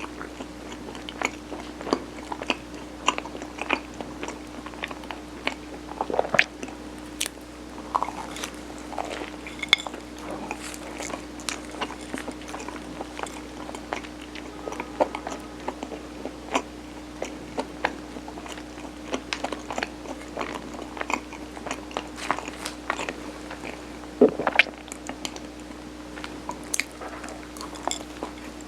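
Close-miked eating of steamed Korean rice cake layered with mung bean: soft chewing with frequent sticky mouth clicks and smacks at an irregular pace, over a steady low hum.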